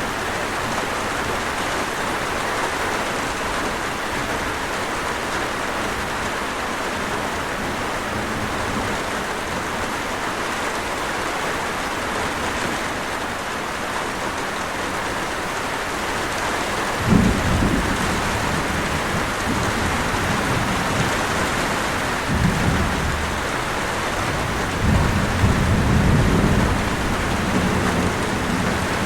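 Steady rain falling, an even hiss, with low rumbles of thunder rolling in past the middle, the first and loudest starting suddenly and further rumbles following a few seconds apart.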